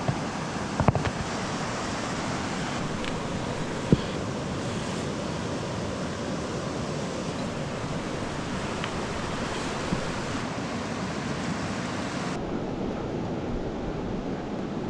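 River water rushing steadily, with a couple of sharp clicks or knocks about one second in and about four seconds in.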